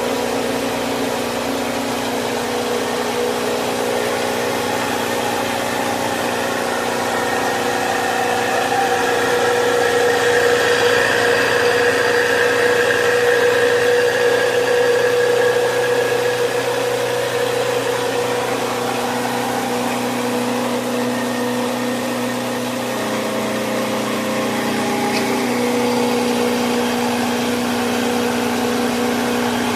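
6W300 three-in-one mini rice mill driven by its 4 HP single-phase electric motor, running with a steady hum. The hum dips slightly in pitch for a couple of seconds about three-quarters of the way through.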